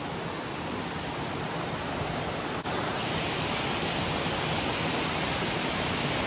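Steady rushing of a waterfall running in heavy flow. There is a brief break about two and a half seconds in, after which it is a little louder and hissier.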